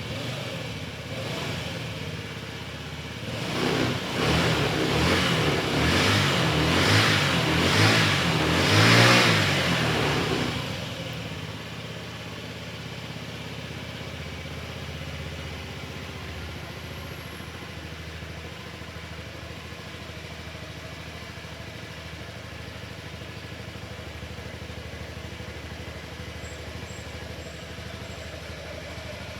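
Honda Zoomer 49cc four-stroke single-cylinder scooter engine running just after starting. It is revved in several surges from about three to ten seconds in, then drops back to a steady idle.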